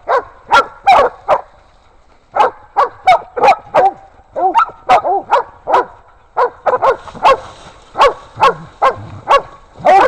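Hog-hunting dogs barking in rapid, repeated barks, about three a second, while baying a wild hog sow held up in thick brush. The barking breaks off briefly twice.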